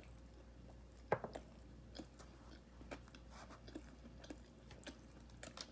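Faint chewing of a submarine sandwich close to the microphone: scattered soft wet mouth clicks and smacks, the loudest about a second in.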